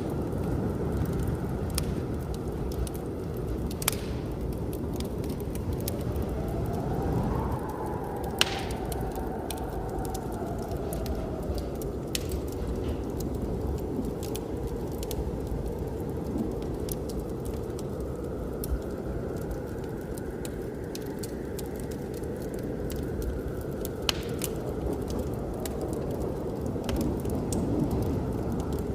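Wood fire crackling, with scattered snaps and a few louder pops, over a steady rumble of blizzard wind. The wind whistles faintly, rising and falling about a quarter of the way in.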